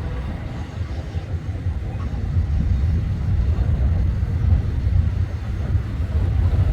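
Low, steady rumble of a freight train running past on the main line.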